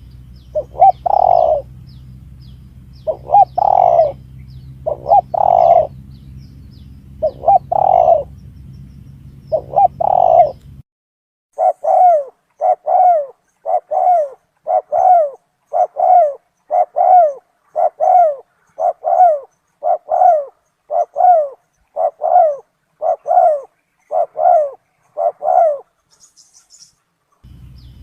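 Spotted dove (tekukur) lure recording: repeated cooing calls. For the first ten seconds or so they come in groups over a steady low hum; after that comes an even run of coos, about one a second.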